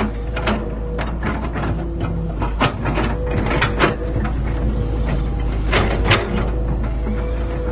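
Excavator running with a steady engine hum, with irregular sharp metallic knocks and clanks on top, the loudest a few seconds in.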